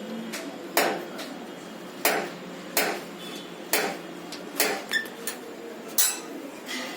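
A series of sharp metallic knocks, about seven at uneven intervals roughly a second apart: metal parts of a washing machine drum assembly being struck or knocked together during a drum spider replacement.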